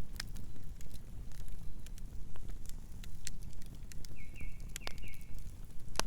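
Campfire burning: scattered sharp crackles and pops of burning wood over a low, steady rumble of the fire. About four seconds in, a brief run of high chirps sounds for about a second.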